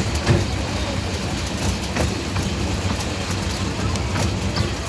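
Miniature railway train running along the track, heard from on board: a steady low rumble with occasional clicks of the wheels over rail joints.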